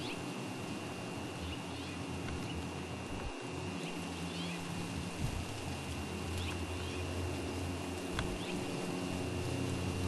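Steady outdoor background noise with a low hum, and faint short chirps about once a second.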